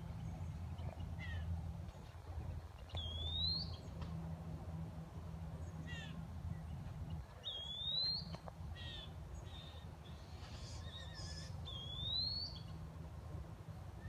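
A wild bird calling: a short, rising whistled note three times, about four seconds apart, with fainter chirps between, over a steady low hum.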